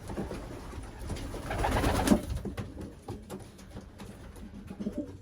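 Racing pigeons cooing in a loft: low, short calls over a steady background, with a louder rustling burst about two seconds in, followed by scattered faint ticks.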